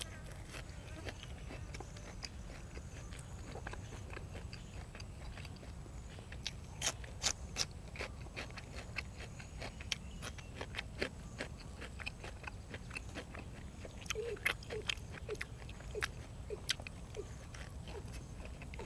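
A person chewing and crunching food close to the microphone, with irregular crisp crunches and mouth clicks, louder bursts about seven seconds in and again in the last few seconds: eating fresh raw vegetables with spicy raw shrimp salad. A low steady hum sits underneath.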